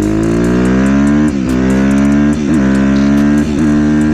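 2015 Suzuki RM-Z250 single-cylinder four-stroke dirt bike engine accelerating. The pitch climbs, then drops briefly with each of three upshifts about a second apart before climbing again.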